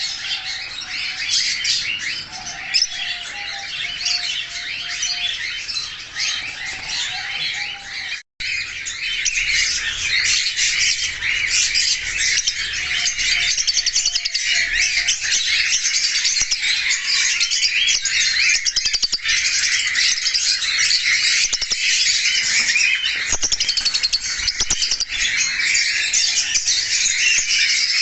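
Many small caged parrots chirping and chattering at once, a dense, continuous high-pitched twittering. A momentary cut about 8 seconds in, after which the chatter is denser.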